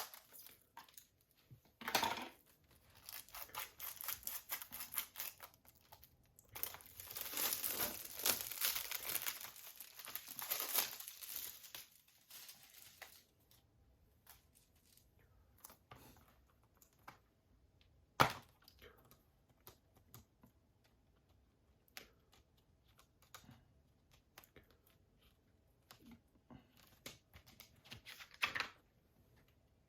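Plastic wrapping being torn and crinkled off a Blu-ray case for several seconds, then a single sharp click about 18 seconds in, with scattered light handling clicks and another short rustle near the end.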